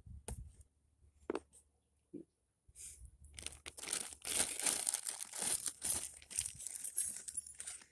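Plastic packaging crinkling and rustling as small parts are handled, after a few light clicks and knocks. The crinkling starts about three seconds in and runs on for about four seconds.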